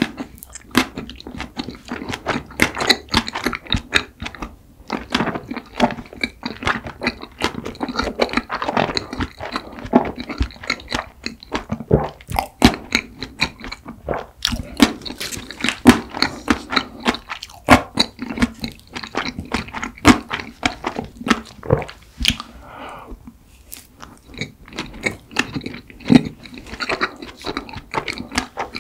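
Close-miked chewing of a mint chocolate ice cream mochi: a continuous run of wet mouth clicks and smacks.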